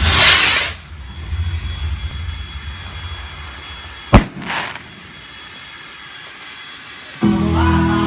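Fireworks: a short loud hiss at the start, then a single sharp bang about four seconds in followed by a brief hiss. Music comes in near the end.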